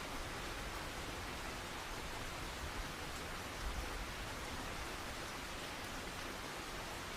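Steady rain falling in an even hiss, with a faint low rumble of thunder swelling underneath a few times, most noticeably a little past halfway.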